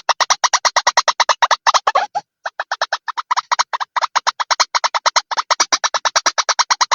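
White-breasted waterhen calls: a fast run of short, sharp repeated notes, about eight a second, with a brief break about two seconds in.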